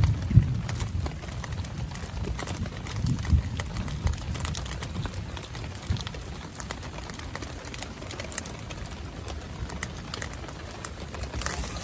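Rain falling, with scattered individual drops striking close by as sharp taps. A low rumble swells near the start and again about three seconds in, then settles.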